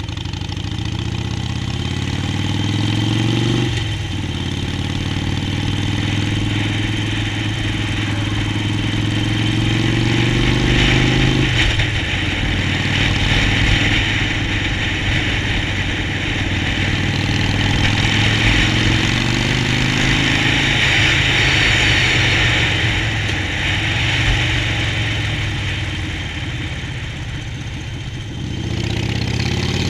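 Harley-Davidson Sportster Forty-Eight's V-twin engine under way, its pitch climbing through a gear and dropping sharply at upshifts about 4 and 12 seconds in, easing off later and picking up again near the end, with a steady hiss throughout.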